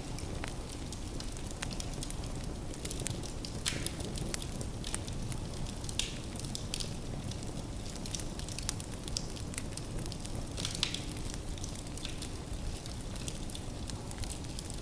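Firewood burning in a fireplace: a steady low rumble of flames with irregular crackles and pops, a few louder pops about four, six and eleven seconds in.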